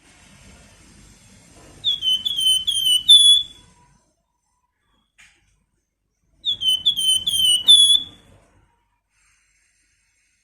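A flamboyan songbird whistling two short phrases, about two seconds in and again about six and a half seconds in. Each phrase is about five quick, high, downslurred notes, ending on a longer one.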